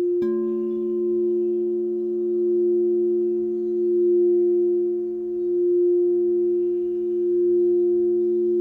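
Singing bowls ringing: one bowl holds a steady tone that slowly swells and fades, and a second bowl is struck just after the start, its lower tone ringing on beneath it while its higher overtones fade away.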